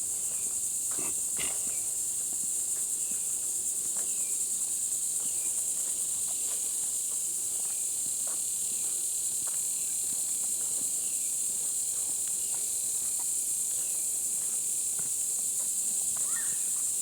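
Steady, high-pitched drone of an insect chorus, with the soft steps of people walking along a dirt trail.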